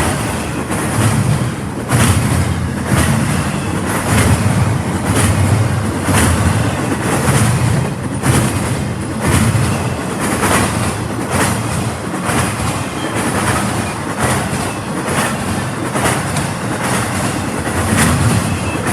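Train rolling past, its wheels clicking over the rail joints about once or twice a second over a steady low rumble.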